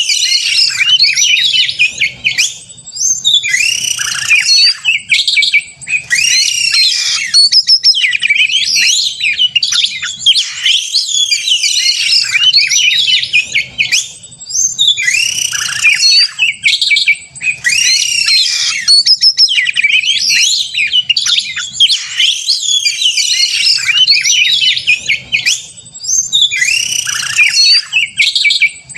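Oriental magpie-robin (kacer) in full, aggressive challenge song: loud, varied whistles and harsh notes delivered in phrases a few seconds long, with brief breaks between them.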